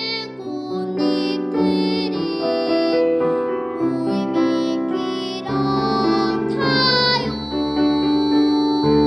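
A young girl singing a children's song with vibrato over a sustained instrumental accompaniment.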